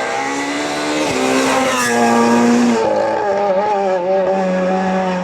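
Rally car engine running hard, its note dropping in a few steps and then holding lower and steady. A brief hissing swell comes about two seconds in, and tyre squeal may be mixed in as the car takes a corner.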